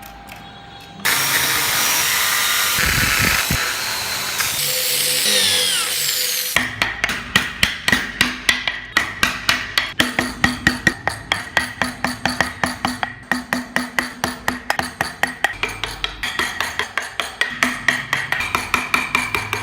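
A power tool working wood for about five seconds, with a whine that falls in pitch near its end. It is followed by a steady run of sharp taps, about three a second, typical of hand carving with a mallet and chisel.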